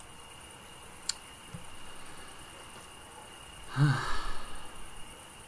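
A man's short, voiced sigh about four seconds in, over a steady hiss, with a faint click about a second in.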